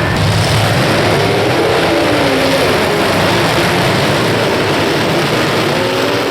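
Several demolition derby cars' engines running and revving at once, a dense steady engine noise with pitches rising and falling.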